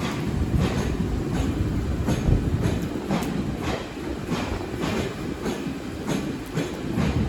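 Taiwan Railway train rolling along the track: a steady low rumble with a run of sharp wheel clacks over the rail joints, about two a second.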